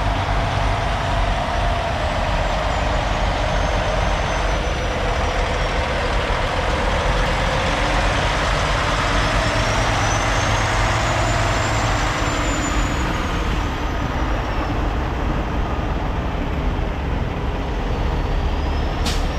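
Big diesel trucks running and moving past, a steady engine noise whose pitch rises and falls slowly, with a single sharp click near the end.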